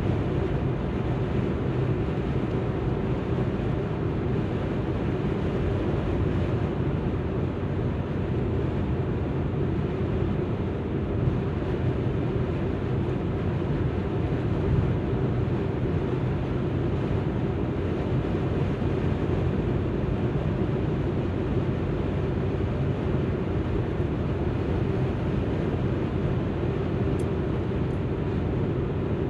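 Alfa Romeo MiTo driving along: a steady drone of engine and tyre noise with a low hum, even throughout.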